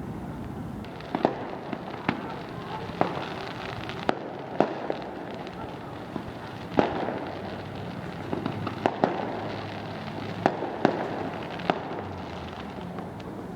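Fireworks going off: sharp bangs at irregular intervals, about one a second with a quick cluster of pops past the middle, over a steady background din.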